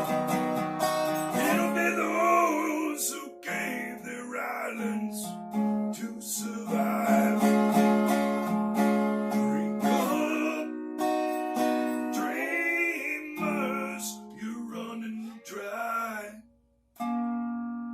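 Acoustic guitar playing the closing instrumental bars of a song, with strummed and held chords. Near the end it stops briefly, then strikes a final chord that is left to ring out.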